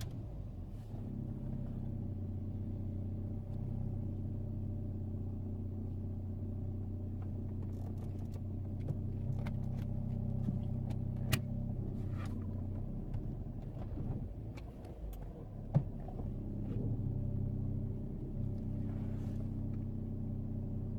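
2002 Mini R50's 1.6-litre petrol engine idling steadily, freshly refilled with 5W-30 oil, with a few light clicks and one sharper click about three-quarters of the way through.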